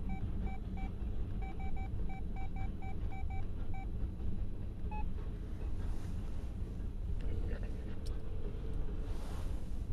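Freight train of loaded tank cars rolling past, a steady low rumble of wheels on rail. A run of short, evenly pitched electronic beeps sounds through the first four seconds, with one more about five seconds in.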